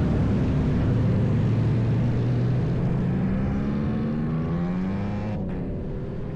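Motorcycle engines running and revving, their pitch rising and falling, the sound growing gradually quieter.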